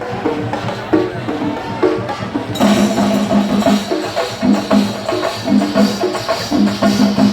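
Festival music of drums and percussion under a repeating melodic line, growing fuller and louder about two and a half seconds in.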